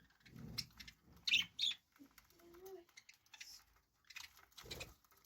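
Budgerigars chirping: two short, sharp high chirps a little over a second in, with softer chirps and low knocks around them.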